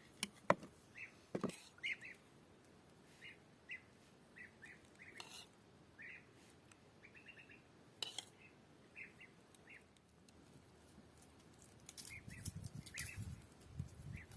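Small birds chirping in short calls, about one every second or so, with a few sharp knocks or clicks in between and low soft thumping near the end.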